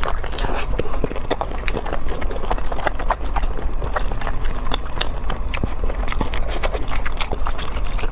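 Close-miked biting and chewing of lobster tail meat: many short, irregular wet mouth clicks and smacks.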